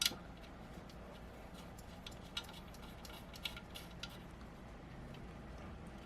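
Small metal mounting parts being handled and fitted: one sharp click right at the start, then scattered light clicks and taps.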